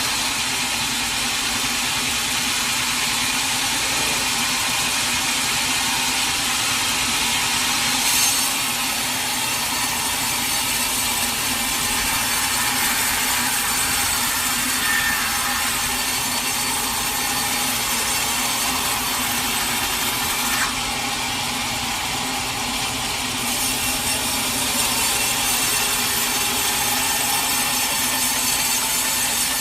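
Sawmill saw cutting through a large teak log: a steady, loud hiss of the blade in the wood over a constant low hum, with a brief sharp spike about eight seconds in.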